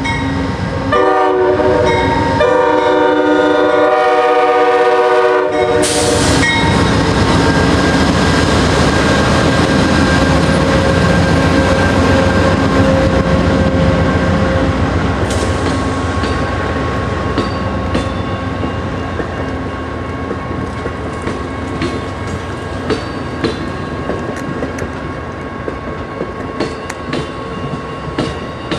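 A locomotive's multi-chime air horn sounds a short blast and then a long one. The train then rolls past with a steady rumble and wheels clicking over the rail joints, slowly fading.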